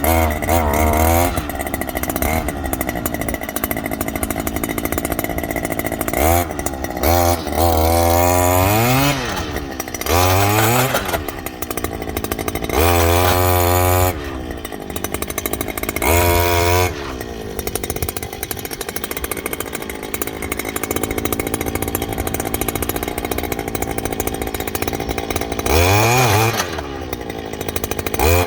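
Handheld engine-powered earth auger's small engine, run up in repeated bursts with rising pitch and dropping back to a lower speed in between.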